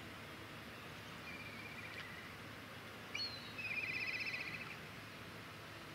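A small songbird singing: a short trill, then a brief high note and a louder, faster trill about halfway through, over a steady faint background hiss.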